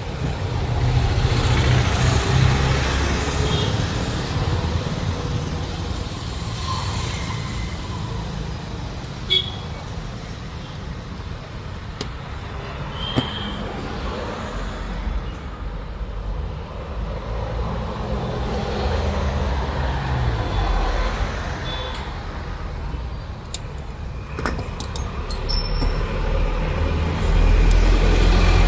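Motor vehicle engines running and passing, the sound swelling and fading several times, with a couple of sharp clicks in between.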